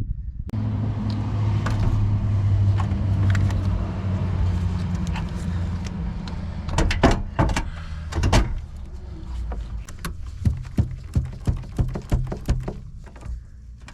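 A motor hums steadily for several seconds and then fades out, followed by a run of sharp clicks and knocks.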